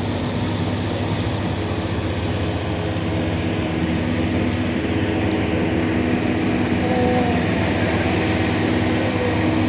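Allis-Chalmers WC tractor's four-cylinder engine running steadily under load as it pulls the sled down the track, growing slightly louder toward the end.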